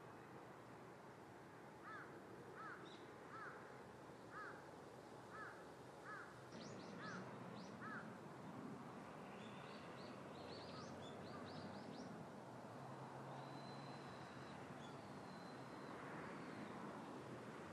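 Faint background hiss with birds calling: a run of about eight short, evenly repeated calls over some six seconds, then scattered higher, quick chirps.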